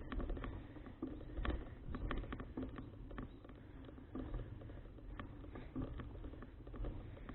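Folding bicycle being ridden, heard from a bike-mounted action camera: a steady low rumble of road and wind with many irregular small clicks and rattles.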